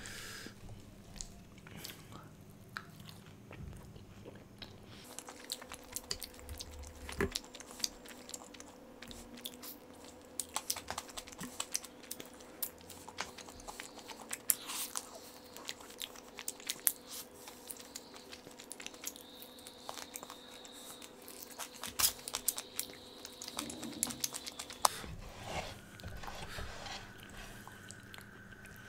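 Close-miked eating sounds: a man chewing and biting food, which sounds as many small irregular mouth clicks and wet bites. The food is butter chicken and murg methi malai with garlic naan.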